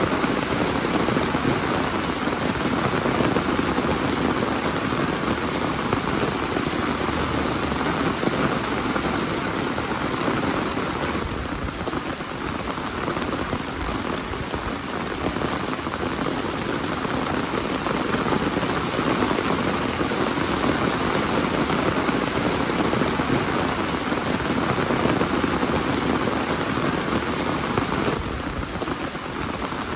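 Heavy rain falling steadily, a dense even hiss of drops on surfaces, easing slightly for a moment about a third of the way in and again near the end.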